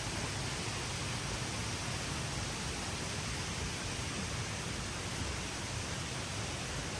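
Steady rushing of a waterfall, an even unbroken hiss of falling water.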